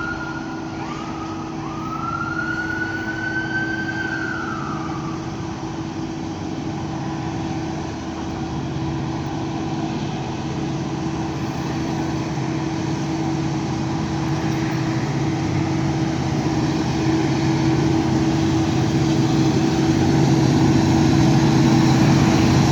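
Diesel freight locomotive horn sounding two short blasts and then one long blast of about three seconds, whose pitch sags as it ends. After the horn, the lead locomotives' engines rumble steadily and grow louder as the train approaches.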